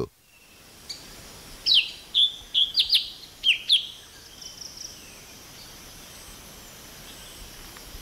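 Wild bird calling: a quick run of short, sharp, high chirps about two to four seconds in, over a faint steady forest hiss.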